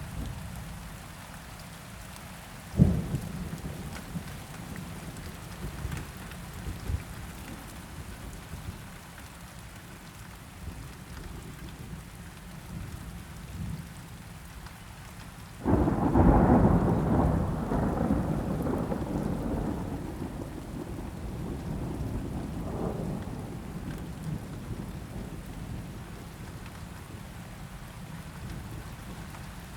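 Steady rain falling, with thunder. There is a short sharp thump about three seconds in. Halfway through comes a loud thunderclap that rumbles on and slowly dies away.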